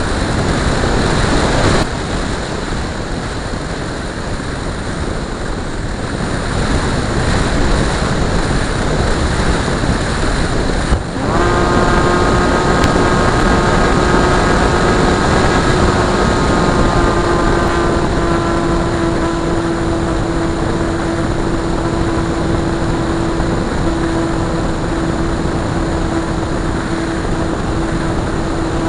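Radio-controlled model airplane's motor and propeller droning at a steady pitch, heard under heavy wind rush on the microphone. The drone comes in about a third of the way through and runs on steadily.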